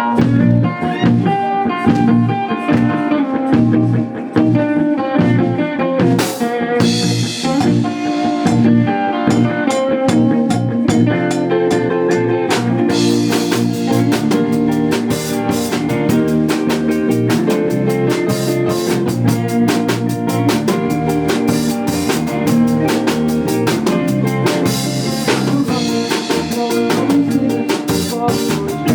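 A live rock band playing a song on electric guitars, bass and drum kit, which gets fuller and louder about 13 s in.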